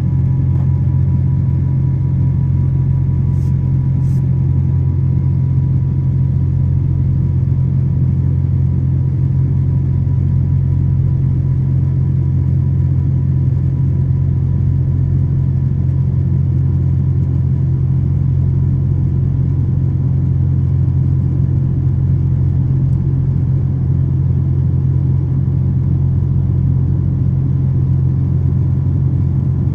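Steady low drone of a Boeing 777's jet engines and airflow, heard inside the passenger cabin, with a faint thin hum above it. It neither rises nor falls.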